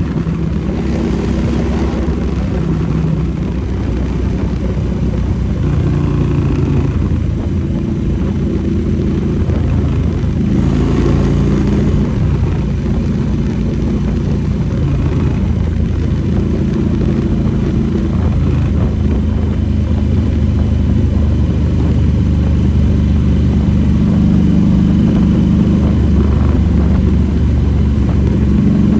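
Motorcycle engine running while under way, its pitch shifting up and down with speed.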